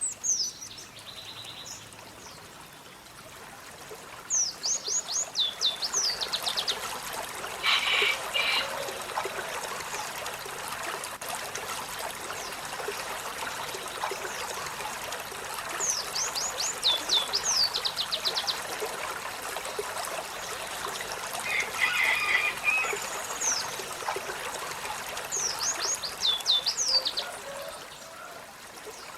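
Olive-backed sunbird singing: three phrases of rapid, high, downward-sweeping notes, spaced about ten seconds apart, with short chattering calls between them, over a steady trickling background.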